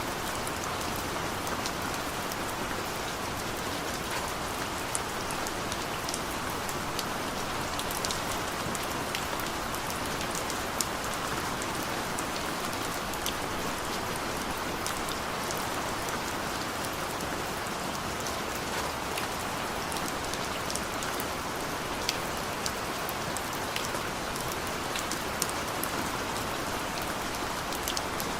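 Steady rain, with many separate drops ticking sharply over a constant hiss.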